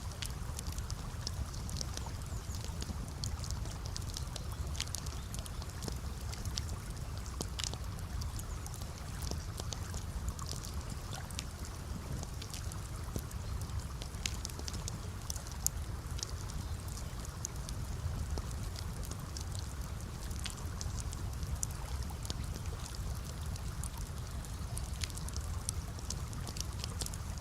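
Campfire crackling, with many irregular sharp pops and snaps over a steady low rush of gently flowing water.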